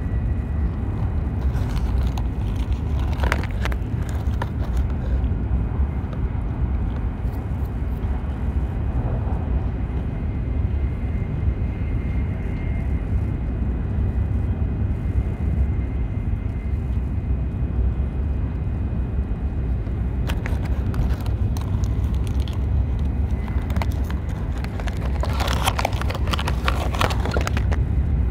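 Steady low rumble of a Shinkansen bullet train running at speed, heard from inside the carriage. Brief scratchy noises come a few seconds in and again near the end.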